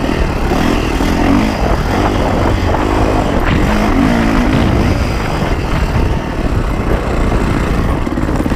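Yamaha YZ450F's 450 cc single-cylinder four-stroke engine revving up and down, its pitch rising and falling several times under rushing noise as the dirt bike is ridden.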